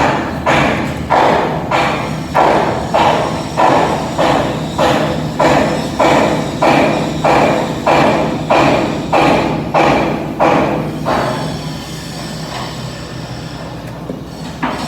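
Hammer striking metal in an even rhythm, about one blow every 0.6 seconds, each with a short ring; the blows stop about eleven seconds in, leaving a steady machine hum.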